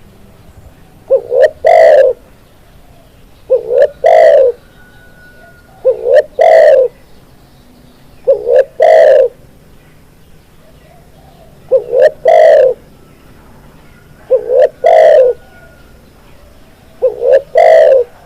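Spotted dove cooing: seven repeated phrases, mostly about two and a half seconds apart, each two short notes followed by a longer one.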